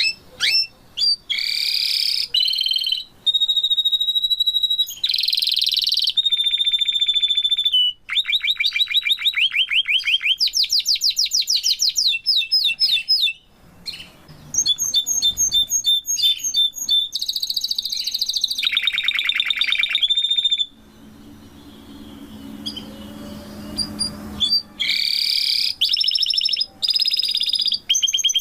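Domestic canary singing a long, loud song of fast trills of repeated notes and held whistled notes, with short breaks and a lull of a few seconds about three quarters of the way through.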